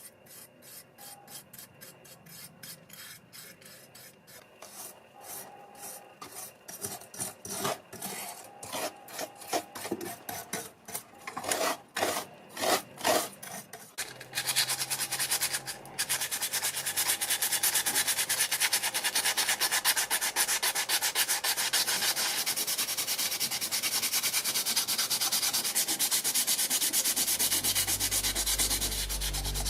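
Sandpaper rubbing back and forth in separate strokes that grow louder and quicker, then about halfway through turning into continuous steady sanding. A low hum comes in near the end.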